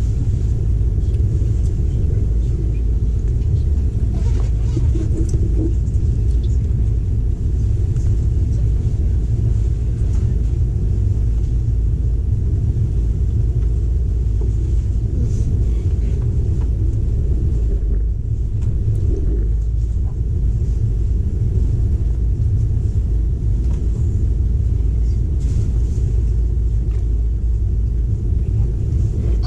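Steady low rumble of a moving intercity train heard from inside the carriage, with faint light clicks and rattles scattered through it.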